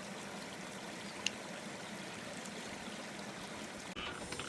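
Steady hiss of heavy rain and running water, with one sharp click about a second in; the sound changes abruptly just before the end.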